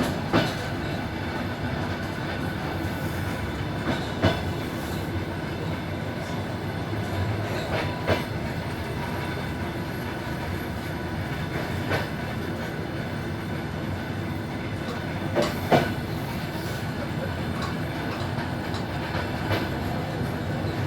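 Passenger train running slowly on jointed track, heard from aboard: a steady rumble with a sharp wheel clack at the rail joints about every four seconds, once as a quick double clack.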